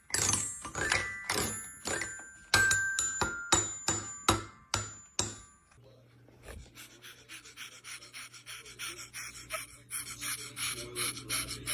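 A small bell struck in quick repeated strikes, about two a second, each ringing briefly, for the first half. It then stops and gives way to a steady low hum with fast, soft, rhythmic puffs.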